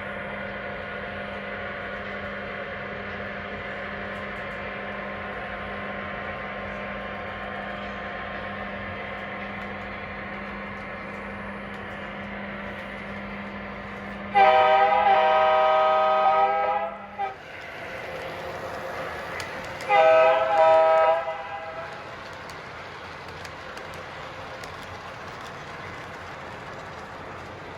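Lionel O-scale model diesel locomotive running on the track, its onboard sound system playing a steady engine rumble. About halfway through it gives one long horn blast, and a few seconds later two short blasts.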